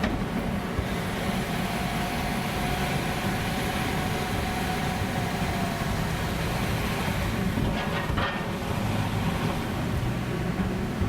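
Car driving slowly onto a ferry's vehicle deck: a steady low rumble of engine and tyres. A faint whine holds for a few seconds, and a short clatter comes about eight seconds in.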